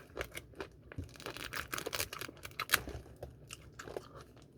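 Soft, irregular crackles and clicks of crispy fried chicken being bitten, torn and chewed.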